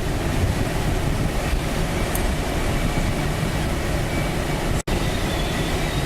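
Steady rushing wind and airframe noise inside a glider cockpit on aerotow at about 70 mph, with faint steady tones that fit the tow plane's engine ahead. The sound drops out for an instant about five seconds in.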